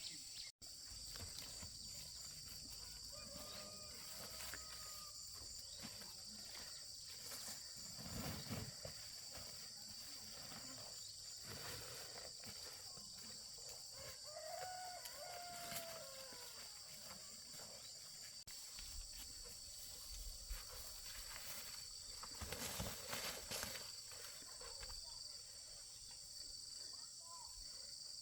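Steady high-pitched insect chorus, with a rooster crowing twice, about three seconds in and again near the middle, and a few scattered knocks.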